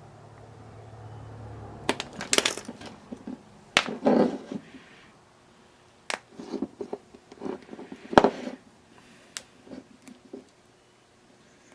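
Hand work with tools and small parts on a workbench: irregular sharp clicks, knocks and light metallic clatter, the loudest click about eight seconds in. A low hum fades out in the first couple of seconds.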